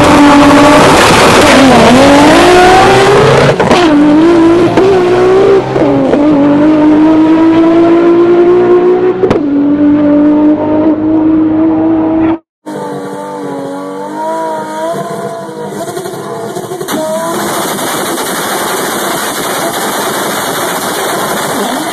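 Tuned Toyota Supra inline-six at full throttle down a drag strip, very loud, its pitch climbing and dropping back at each upshift, four or five times. About halfway through it cuts to a quieter Supra engine revving unevenly at the start line.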